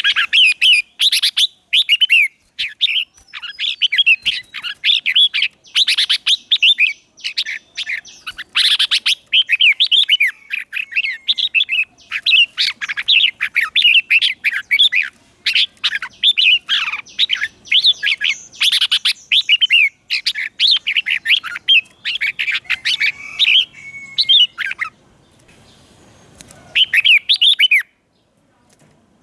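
Red-whiskered bulbul singing a rapid run of bright, warbling phrases, pausing briefly near the end: a decoy bird's song meant to call in wild bulbuls.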